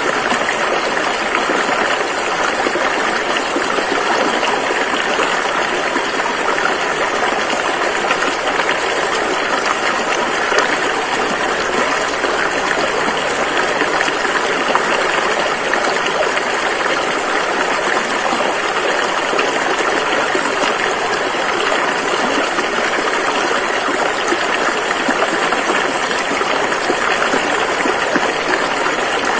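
River water rushing over rocks: a loud, steady, unbroken rush.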